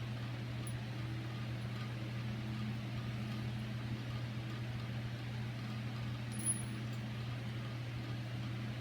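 Steady low mechanical hum, with a faint tick about six and a half seconds in.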